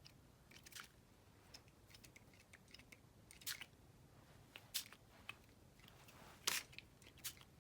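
Pump spray bottle of shimmer ink spritzing in several short, separate puffs, the loudest about six and a half seconds in, with small clicks of handling in between.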